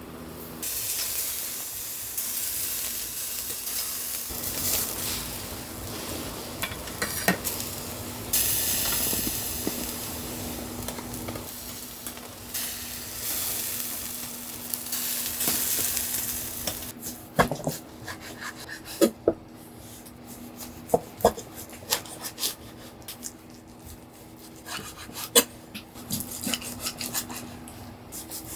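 Food sizzling in a pan while a utensil stirs and scrapes against the cookware. About seventeen seconds in the sizzle drops away, leaving separate clinks and taps of utensils on pots and dishes.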